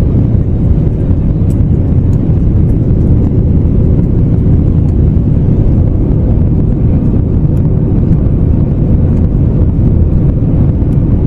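Steady, loud in-flight cabin drone of an Airbus A321neo airliner: engine and airflow noise heard from a window seat, deep and unbroken, with a faint steady hum above it.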